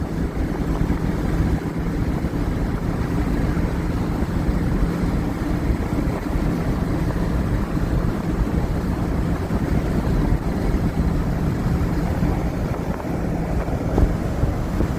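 Steady road and engine drone heard inside the cabin of a car towing a caravan at highway speed, with tyre and wind noise.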